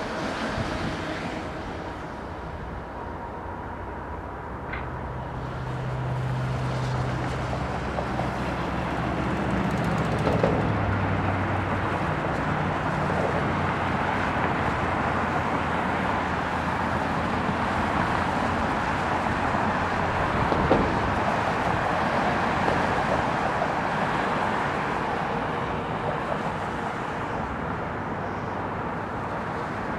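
Bombardier CRJ-900 regional jet's twin turbofan engines passing on landing approach: a steady jet roar that builds over several seconds, holds, then eases a little near the end.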